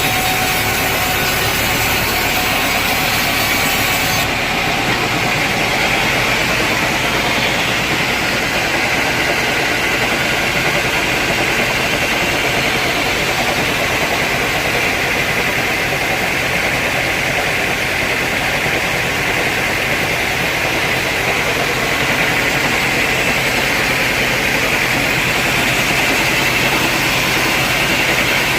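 Sawmill machinery running steadily: a loud, even mechanical drone with a hiss on top. The highest part of the hiss drops away about four seconds in.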